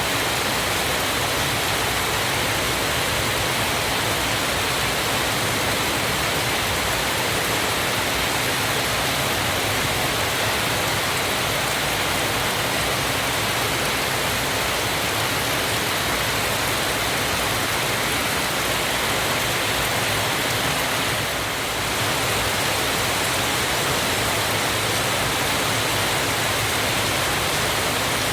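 Waterfall: a steady rush of falling water, even throughout, with a slight brief dip about 21 seconds in.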